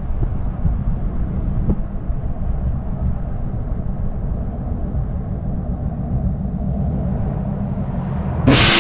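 Steady low vehicle rumble of engine and road noise, with no clear revving. Near the end it cuts abruptly to a much louder, hissing sound.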